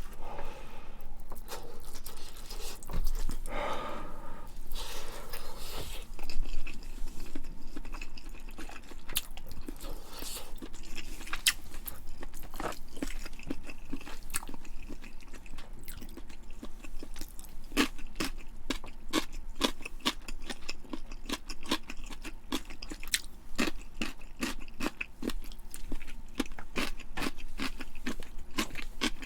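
Close-miked eating: a person chewing and biting food with many small wet clicks and smacks of the mouth, growing denser in the second half, with a louder bite or breath about three seconds in.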